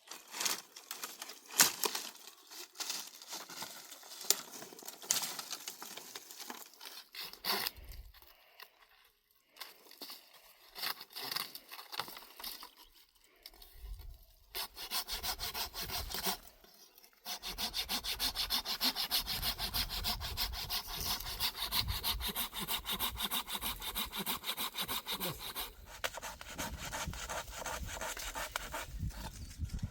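Wood being sawn: scattered knocks and scrapes at first, then from about halfway a steady, even run of saw strokes that continues to the end.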